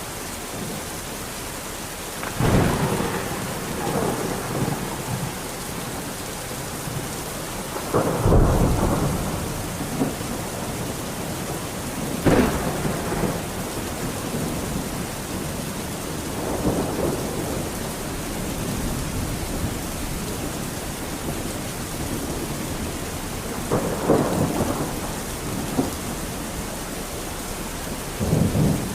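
Steady rain pouring down, with thunder cracking and rumbling every few seconds.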